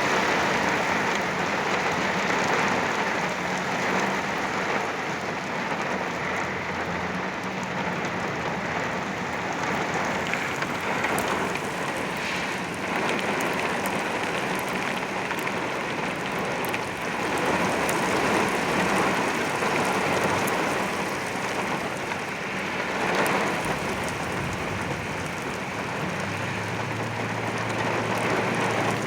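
Very heavy rain pouring onto a vehicle, heard from inside, rising and falling in intensity as the downpour surges.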